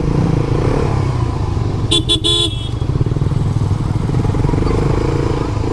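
Motorcycle engine running at low speed, with a horn beeping in a few quick short toots about two seconds in.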